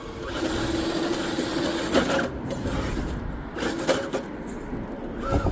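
RC rock crawler's small electric motor and geartrain whining as it drives over rock, with several sharp knocks of the truck striking the rocks, about two seconds in, near four seconds and again near the end.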